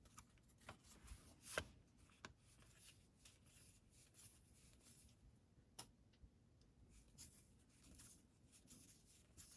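Near silence with faint rustles and clicks of trading cards being handled and slid through a stack, the loudest about one and a half seconds in.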